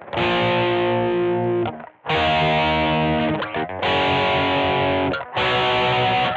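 Squier Vintage Modified Jaguar electric guitar played with distortion: four held chords, each about a second or more long and cut off sharply before the next.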